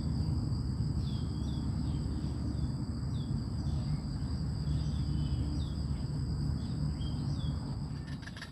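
Insects droning steadily at two high pitches, with short falling chirps every second or so, over a steady low rumble. Just before the end the sound changes to a fast rattling.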